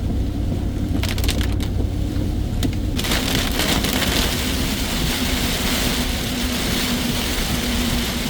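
Steady low rumble of a truck driving, heard from inside the cab; about three seconds in, a loud rush of heavy rain noise starts suddenly and keeps on.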